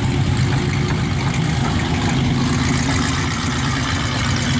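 A motor engine drones steadily: a low, even hum that holds the same pitch and level throughout.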